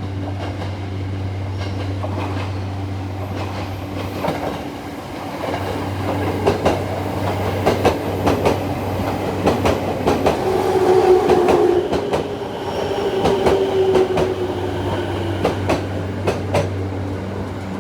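JR 209 series six-car electric train arriving: its wheels clack over the rail joints again and again from about five seconds in. In the middle a whine sounds as the train slows, falling slightly in pitch.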